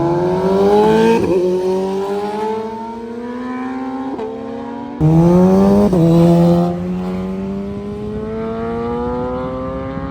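Motorcycle engines accelerating hard through the gears, the pitch climbing steadily and dropping back at each upshift, several times; a louder bike joins suddenly about halfway through.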